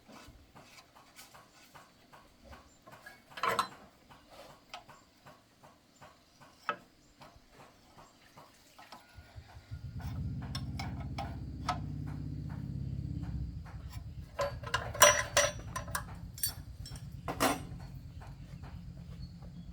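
Light metal clicks and knocks of hand work on a machine, then about nine seconds in a low steady engine starts up and keeps running, with a few sharp knocks over it.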